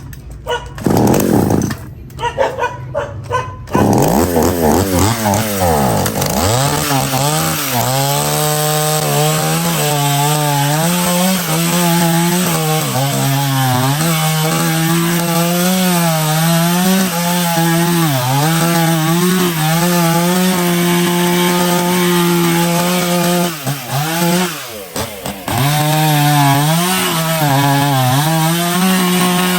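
Restored vintage Stihl two-stroke chainsaw engine sputtering in short bursts for the first few seconds, then catching and revving up to run at high speed. Its pitch dips briefly again and again, and drops away for a moment near the end before picking up again.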